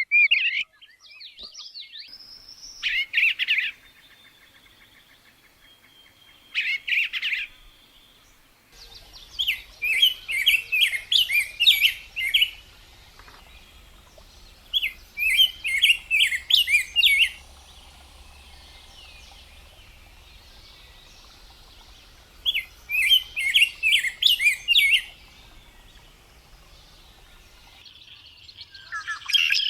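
Birds singing: short phrases of rapid, high chirping notes, a burst every few seconds, each lasting about one to three seconds.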